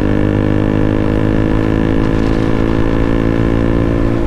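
KTM RC 200's single-cylinder engine through an aftermarket Akrapovic full-system exhaust, running steadily at an even engine speed while riding.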